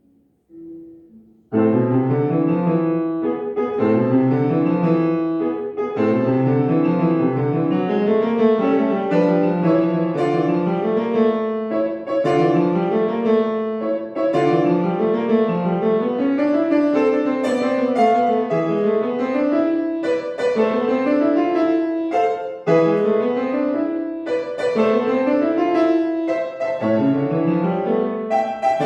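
Solo piano: after a quiet moment with a few soft notes, a lively piece begins about a second and a half in, with repeated rising-and-falling runs in the bass under chords and melody.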